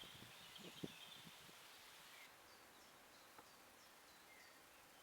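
Faint outdoor ambience recorded by a trail camera, with a steady hiss. There are a few soft low knocks or rustles in the first second. After a sudden change a little past two seconds come faint, scattered short bird chirps.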